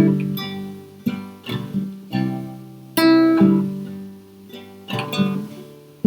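Acoustic guitar strumming chords with no singing, each strum ringing out and fading before the next, about one every second.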